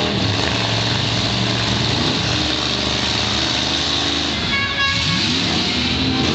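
Several V8 demolition-derby car engines running loud and revving as the cars shove against each other, one engine climbing in pitch about five seconds in.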